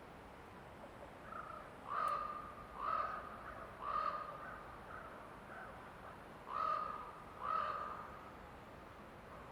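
A crow cawing in the forest: five loud, harsh caws in two groups, three about a second apart and then two more a couple of seconds later, with a few fainter calls in between, over faint steady forest ambience.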